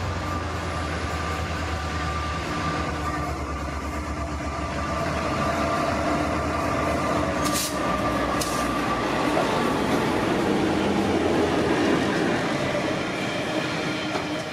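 Watco Australia WRA-class diesel locomotives hauling a grain hopper train pass close by: a steady engine hum and drone with the rumble of wheels on rails. There are two sharp clacks about halfway through, and the hopper wagons roll past near the end.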